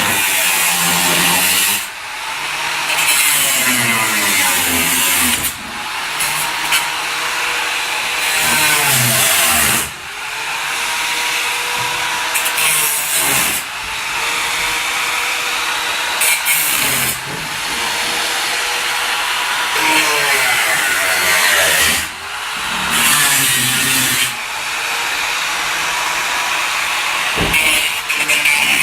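A motor running loudly, its pitch holding steady and then dipping and recovering every few seconds.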